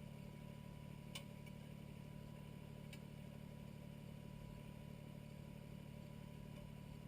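Kubota BX25 compact tractor's three-cylinder diesel engine idling steadily, with two faint clicks about one and three seconds in.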